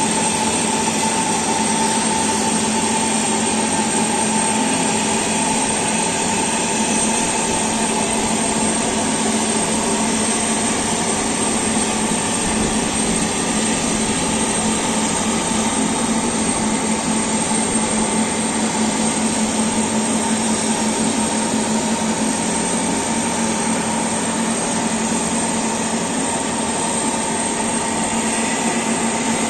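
Antonov An-124 cargo aircraft's turbine running steadily on the ground: a loud, even rush with a constant whine, not changing in pitch or level.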